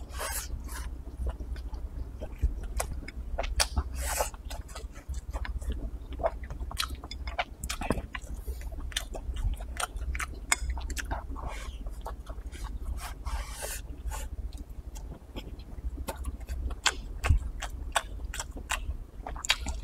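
Close-up chewing of stir-fried dried bean-curd strips: wet mouth smacks and clicks throughout, with a few longer slurps as strips are sucked in, near the start, about four seconds in and around thirteen seconds in.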